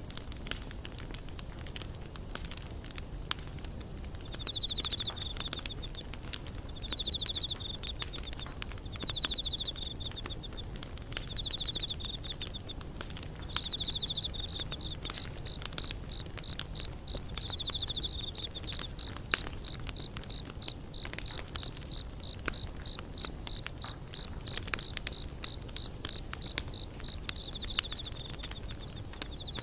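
Insects, cricket-like, trilling in short pulsed bursts about every two seconds over a steady high-pitched buzz. Through it, a campfire crackles with frequent sharp snaps of burning wood.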